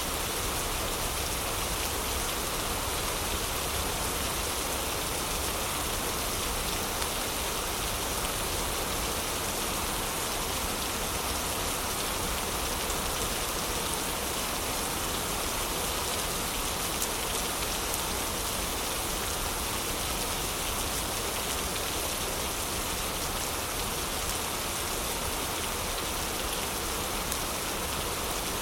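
Heavy rain falling steadily, a dense even hiss with scattered small ticks of drops.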